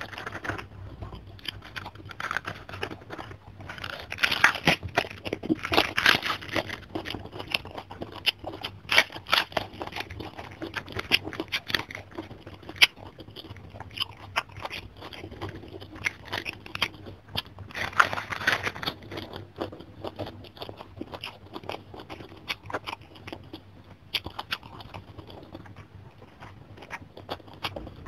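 Close-up crunching and chewing of a mouthful of raw napa cabbage leaf eaten with rice, with many sharp crunchy clicks and wet mouth sounds. The crunching is loudest from about four to seven seconds in and again briefly near eighteen seconds.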